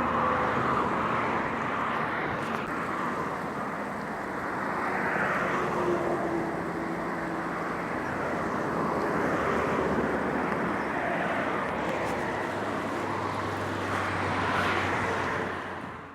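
Steady freeway traffic noise, tyre and engine rush that swells and fades every few seconds as vehicles go past, over a low drone.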